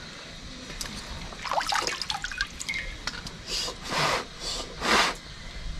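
Water splashing and dripping as an inflated bicycle inner tube is worked through a basin of water to find its puncture. There is a cluster of small splashes, then four swishes in the second half, the last the loudest.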